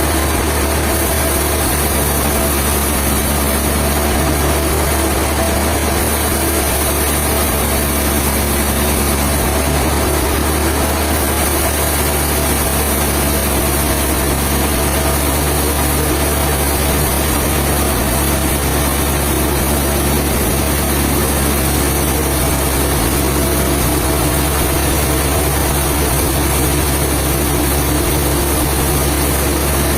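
Sawmill machinery running steadily: a constant engine hum with a dense hiss over it, unbroken throughout.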